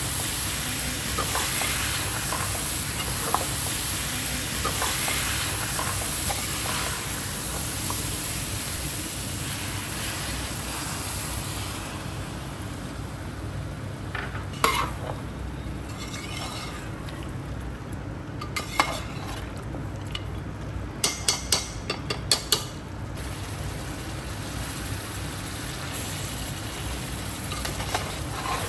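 Mutton korma sizzling as it fries in oil in a pot, stirred and scraped with a spoon. The sizzle softens about halfway through, and sharp clinks of the spoon against the pot come a couple of times, then in a quick run of about five near the three-quarter mark.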